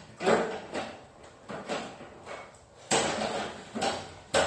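Irregular metal clanks and rattles from a garage door and its hardware being worked into the track, about one to two knocks a second, with a louder cluster about three seconds in.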